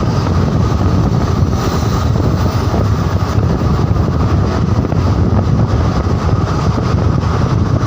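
Steady rumble and wind noise of a moving vehicle.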